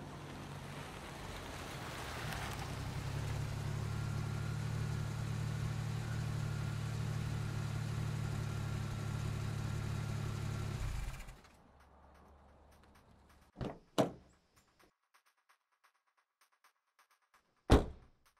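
A Hyundai SUV's engine running steadily with a low hum, cut off abruptly about eleven seconds in. Then a car door shuts with two quick thunks, and after a few seconds of near silence there is one loud sharp thump near the end.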